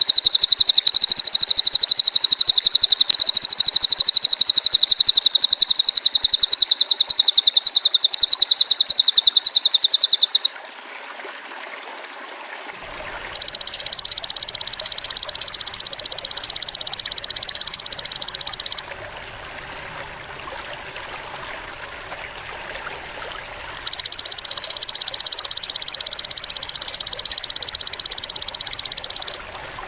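High, rapid, buzzy trills from a bird-training recording of a cililin bird and a belalang emas (golden grasshopper): one long trill of about ten seconds, then two matching shorter trills of about five seconds each, with pauses between them. Running stream water goes on underneath throughout.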